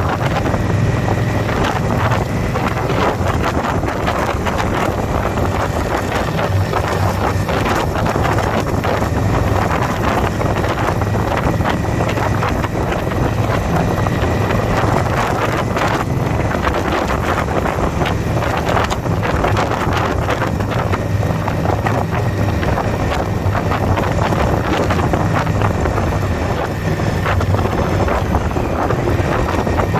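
Motorcycle riding at speed: heavy wind rushing over the microphone over the steady low drone of the engine.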